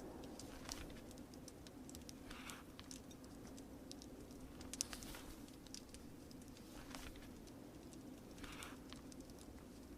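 Faint wood fire crackling, with scattered sharp pops, the loudest about five seconds in, over a steady low background rush. Two brief rustles, about two and a half seconds in and near the end.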